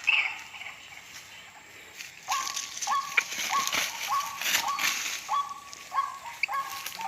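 White-breasted waterhen calls from a lure recording: a short note rising into a held tone, repeated about twice a second, starting about two seconds in. Splashing and sloshing in water run alongside.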